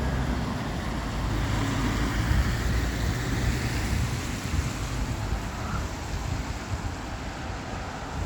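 Outdoor road noise: traffic on a wet road, its tyre hiss swelling and fading in the first half, over a low rumble of wind on the microphone.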